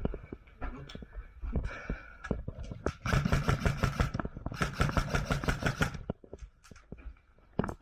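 Airsoft electric gun firing two full-auto bursts, each lasting about a second, at a rapid even rate with the gearbox motor humming underneath. Scattered clicks and knocks come before and after.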